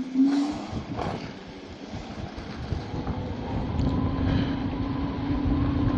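Electric scooter riding on the street: steady rumbling road and wind noise, with a few knocks in the first second. About four seconds in, a steady motor whine sets in and the noise slowly grows louder.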